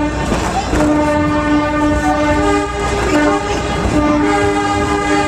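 Train whistle blowing in long, loud blasts with short breaks, a second, higher note joining partway through.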